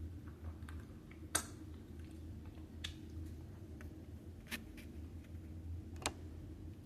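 Eating sounds: four short sharp clicks or smacks about a second and a half apart over a steady low hum.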